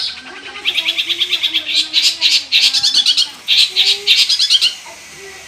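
Long-tailed shrike (cendet) singing: fast runs of high, rapidly repeated notes in several bursts, dropping away near the end.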